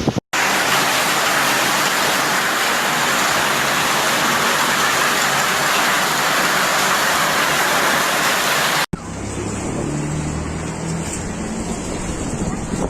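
Storm of heavy rain and wind, heard as a loud, even hiss. About nine seconds in it cuts off abruptly and gives way to quieter, lower wind noise.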